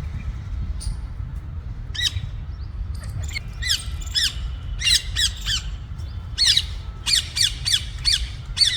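Female ring-necked parakeets squawking: short, sharp, falling calls, a few scattered at first, then quick repeated runs of them from about three seconds in, over a steady low rumble.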